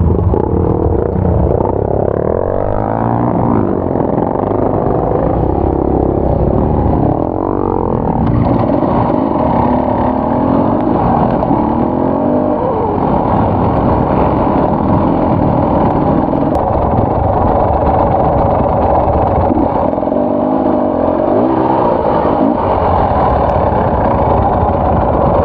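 Enduro dirt bike's engine running hard on a trail, its revs rising and falling several times.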